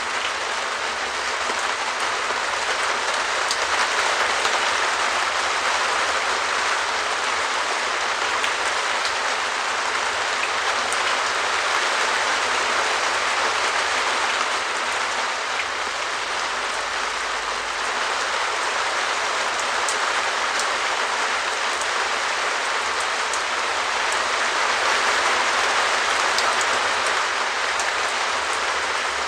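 Steady rain pattering on a perspex shed roof: a dense patter of drops on the plastic sheeting, swelling slightly now and then.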